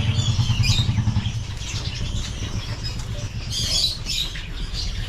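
Caged birds at a bird farm calling in the background: a few squawks and chirps in the first second and another burst about four seconds in, over a steady low rumble.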